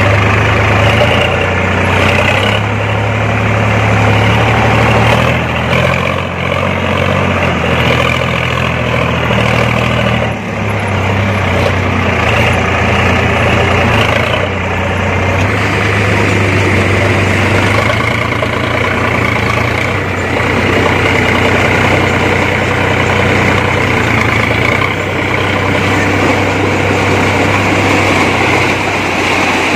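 Diesel engine of a JCB backhoe loader running steadily while the machine works, its pitch shifting up and down, with a brief dip about ten seconds in.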